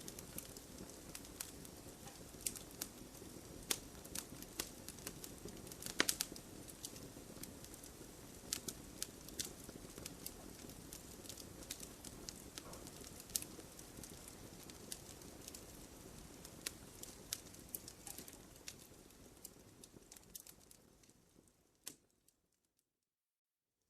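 Campfire burning, crackling steadily over a low rumble, with frequent sharp pops of burning wood. Near the end it fades out into a short silence.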